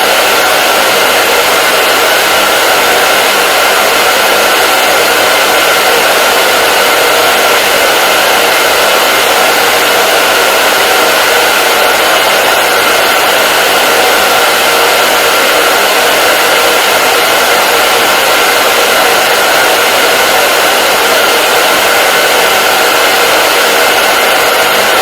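Hair dryer running steadily: an even, loud rush of blown air with a faint constant whine, never changing.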